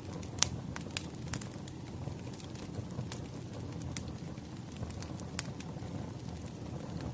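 Wood fire crackling: a steady low rumble of burning logs with irregular sharp pops and snaps, a few louder than the rest.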